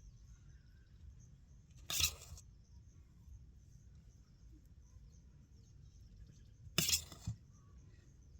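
Two brief clatters of utensils against dishes, about five seconds apart; the second is a double knock.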